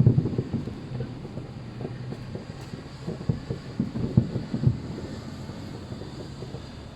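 Fireworks bursting as a run of low booms: a quick cluster right at the start, then scattered booms over a steady rumble, coming thickest about three to five seconds in.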